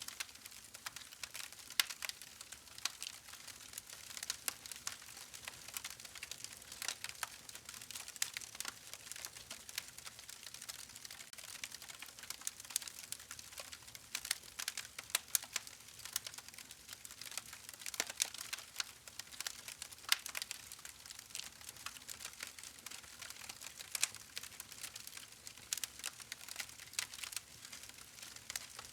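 Wood fire crackling: a dense, irregular run of sharp pops and snaps over a soft steady hiss of burning.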